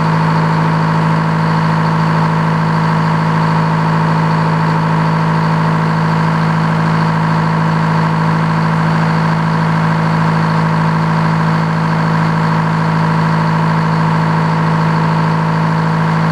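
Sawmill engine running with a steady hum, the saw blade not yet engaged.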